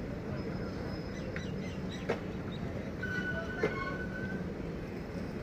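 Passenger train coaches rolling past close by: a steady rumble of wheels on the rails, with two sharp clanks about two seconds in and again a second and a half later.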